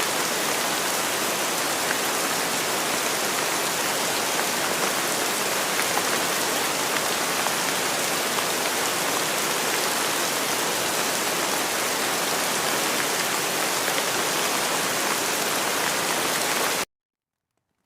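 Steady rain falling in a dense, even hiss, cutting off abruptly about a second before the end.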